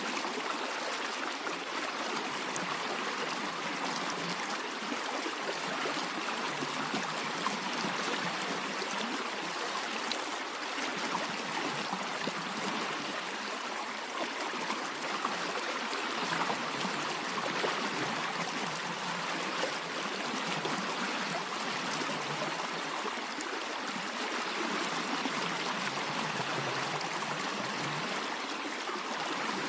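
A stream of water running steadily, with a trickling, gurgling flow.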